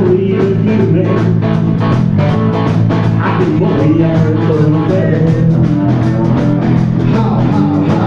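Blues-rock band playing an instrumental passage: guitar lines over a steady bass and drum beat.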